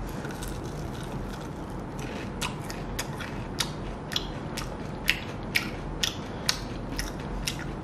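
A man chewing a bite of fried prawn cutlet, with sharp crunching clicks at an even rhythm of about two a second.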